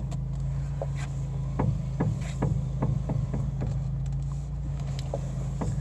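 Repeated dull knocks, a few a second and unevenly spaced, from a Fiat Panda's front suspension as the steering wheel is turned, over a steady engine hum; a "doink doink doink" noise caused by a worn front shock top mount.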